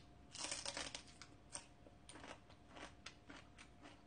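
A crisp bite into a raw green chili pepper a moment in, then a run of smaller crunches as it is chewed.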